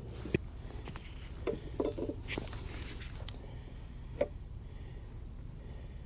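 A few scattered light clicks and knocks, a small cluster of them a couple of seconds in and one more about four seconds in, over a low steady hum.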